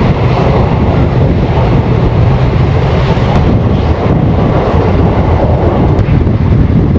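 Passenger train running along the track, heard from on board as a steady, loud rumble, with wind on the microphone.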